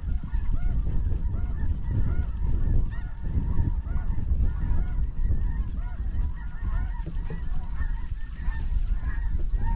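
Snow geese honking, many short high calls overlapping without a break, over a steady low rumble of wind on the microphone.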